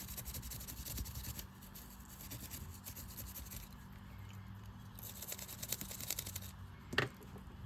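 Wire brush scrubbing rust off a metal part of a spincast fishing reel in quick scratchy strokes, in three spells, with a short knock near the end.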